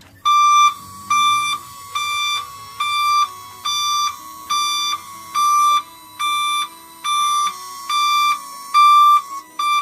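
Electronic warning beeper sounding a loud, steady on-off beep, about five beeps every four seconds.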